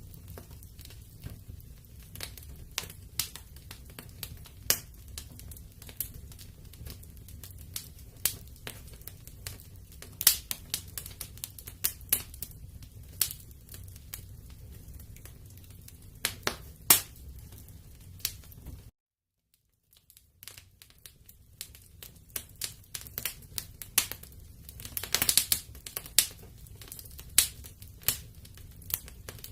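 Wood fire crackling in a fireplace: irregular sharp pops and snaps over a low steady rumble, with a denser run of crackle and hiss later on. The sound cuts out completely for under a second about two-thirds of the way through.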